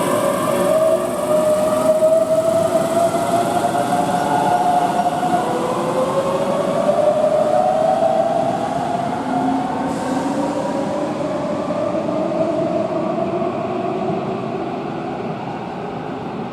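Keihan electric train pulling out and accelerating, its traction motor whine rising in pitch in several successive steps over a steady rail rumble, fading slightly near the end.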